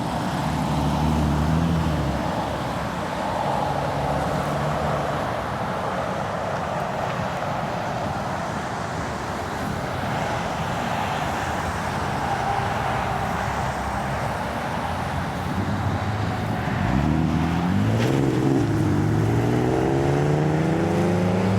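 2008 Audi TT's 3.2-litre V6 running through a newly fitted Magnaflow exhaust as the car is driven out; the engine note settles into a steady rush, then about 17 s in the engine revs up with a rising note that stays higher near the end.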